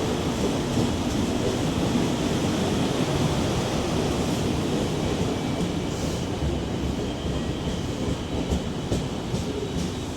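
Electric multiple-unit train running on the rails with a steady rumble. From about six seconds in come sharp clicks, typical of wheels passing over rail joints.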